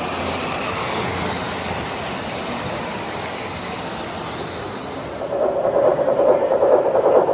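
Model train running on a layout's track with a rolling, rumbling clatter, which gets louder about five seconds in.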